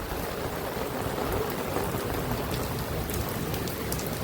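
Steady rain falling, with scattered sharp raindrop ticks close by and an uneven low rumble underneath.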